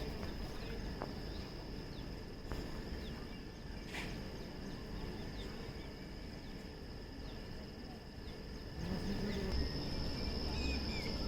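Insects calling in one steady high-pitched drone over a low background rumble; about nine seconds in the low rumble grows louder.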